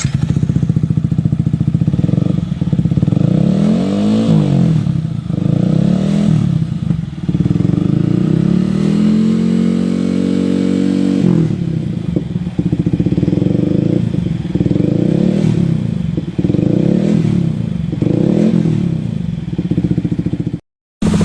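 Yamaha XSR 155's single-cylinder engine through an aftermarket muffler, idling and blipped repeatedly so the exhaust note rises and falls, with one longer, higher rev about halfway through.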